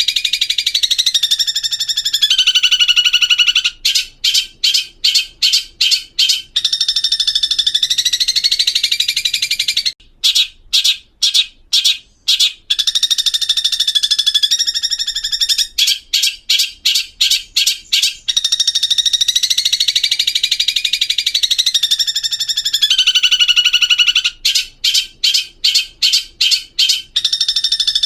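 Long-tailed shrike (cendet) song: a continuous high chatter, broken four times by quick runs of sharp repeated notes at about two to three a second, in a pattern that repeats like a looped recording.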